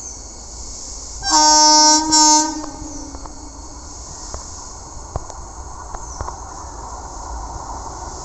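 Indian Railways electric locomotive horn, sounding two blasts about a second and a half in: a longer one, then a short one straight after. A low train rumble follows, with a few sharp clicks.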